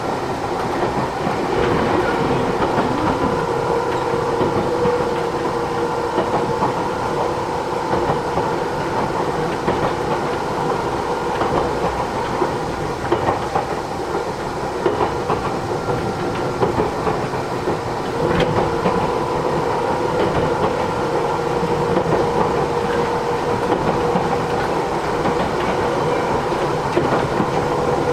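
Matsumoto Electric Railway 3000 series electric train heard from inside the car while running: a steady rumble of wheels on rail with clickety-clack over the rail joints and a steady hum, which grows stronger about two-thirds of the way through.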